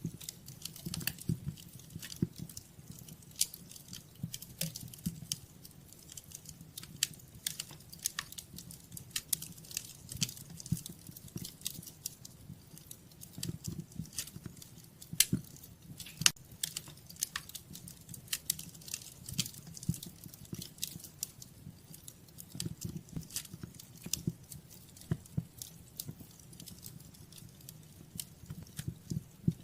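Fire in a fireplace crackling, with dense, irregular pops and snaps over a low, uneven rumble of flame.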